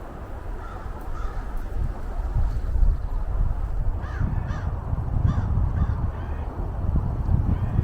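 Wind rumbling on the microphone, with a bird calling several times in quick succession in the middle, and fainter calls about a second in.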